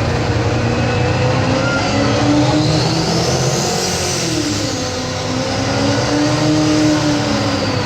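Massey Ferguson 1150 light pro stock pulling tractor's diesel engine running hard under load as it drags the weight sled. Its pitch wavers up and down, and a high whine rises to a peak about four seconds in, then falls away.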